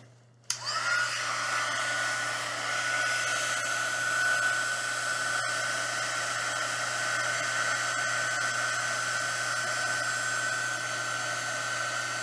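Heat gun switched on about half a second in and running steadily: a blowing hiss with a steady high whine that climbs briefly to pitch as it starts.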